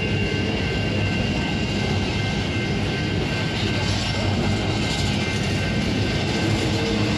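Freight train cars rolling past on steel rails: a steady loud rumble of wheels, with a thin, steady high-pitched wheel squeal above it.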